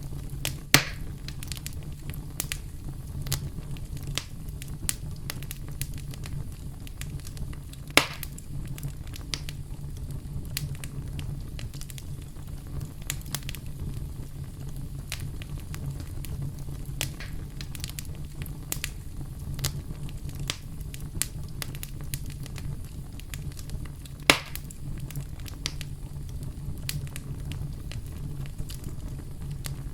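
Campfire crackling: a steady low rumble of burning wood under many scattered small snaps, with three louder pops about a second in, about eight seconds in and near twenty-four seconds.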